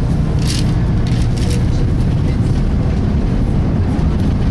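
Volvo B10BLE single-decker bus with Voith automatic gearbox heard from inside the saloon while under way: the engine and driveline drone steadily, with brief rattles about half a second and a second and a half in.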